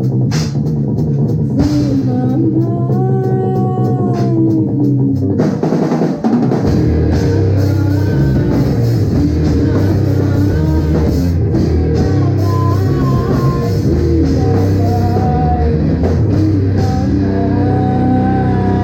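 Live rock band playing: drum kit with cymbal hits, guitar and bass. About six seconds in, the band comes in heavier, with a much fuller low end.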